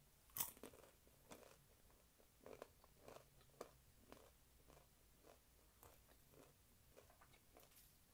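Quiet close-up chewing of crispy fried taquito. A sharp crunch comes about half a second in, then a run of smaller crunches and mouth sounds that grow sparser.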